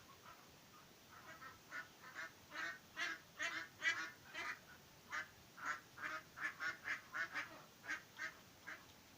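Domestic hen clucking: a rapid run of short calls, about two or three a second, starting a second in and loudest around the middle.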